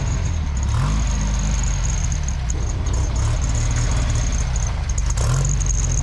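A car engine running, its revs rising briefly about a second in and again about five seconds in.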